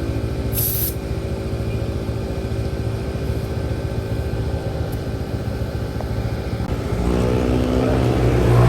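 Motorcycle engine running steadily on the move, picking up speed near the end as its pitch rises. A brief hiss comes just under a second in.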